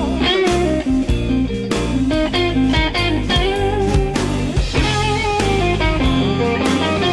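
Blues band playing an instrumental passage: electric guitar lead with bending notes over bass and a steady drum beat.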